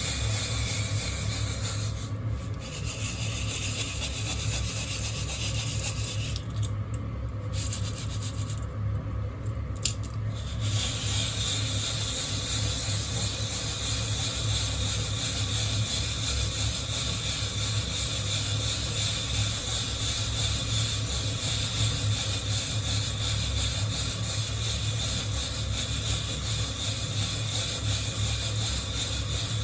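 Coffee beans rattling and rubbing against a hand-held wire-mesh roaster as it is shaken over the heat, with a steady low hum underneath. The rasping eases off briefly a few times and there is one sharp click about ten seconds in.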